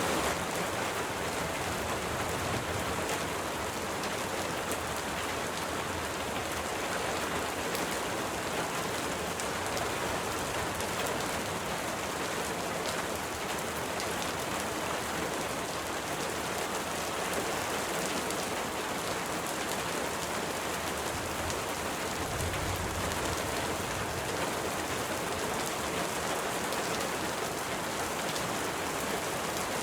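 Steady rain falling, an even dense patter of drops with no let-up.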